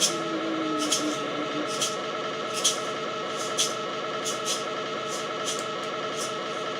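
Improvised experimental noise music: a dense, steadily pulsing drone of layered tones through delay and reverb, with scattered sharp clicks. A held pitched tone breaks up and fades out about a second and a half in.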